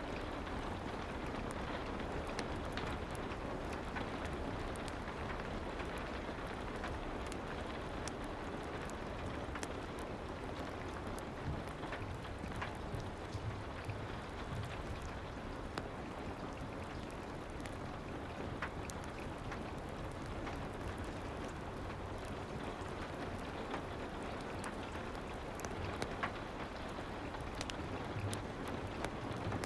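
Steady soft rain ambience, an even hiss with scattered faint sharp ticks.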